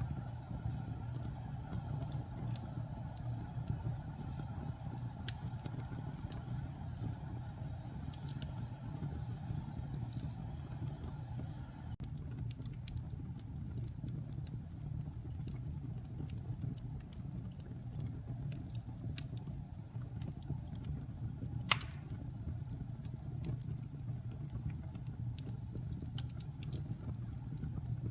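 Wood fire burning in a fireplace: a steady low rumble of flames with scattered small crackles and snaps, and one sharp, loud pop about three-quarters of the way through.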